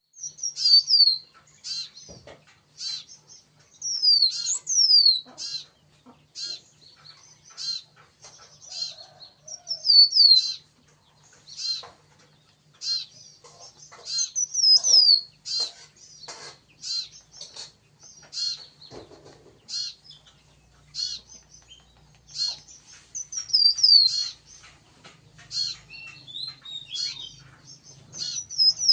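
Great iora (cipau jantung) singing continuously: clear whistled notes that slide downward, mixed with quick sharp chirps, in phrases repeated every few seconds. A faint steady low hum runs underneath.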